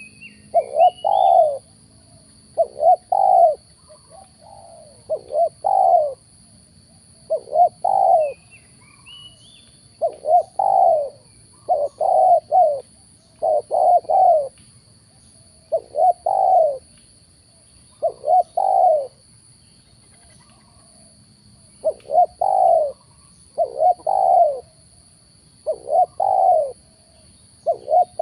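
Spotted doves cooing over and over, each call a short phrase of two or three coos about every second or two. A smaller bird gives brief rising chirps near the start and again about nine seconds in.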